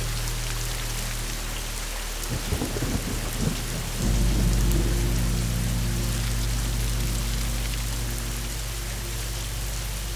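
Steady rain with a thunderstorm: a crackle of thunder about two and a half seconds in, then a louder low rumble from about four seconds that slowly fades. Low sustained tones of a soft music bed sit under the rain.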